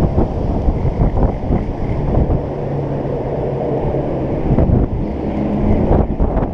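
Strong gusty wind buffeting the microphone, a loud rumbling rush that swells and eases with each gust.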